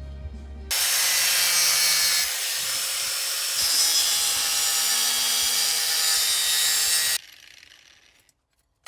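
Harsh, continuous rasping noise of a tool abrading a part's surface. It starts about a second in and cuts off suddenly near the end.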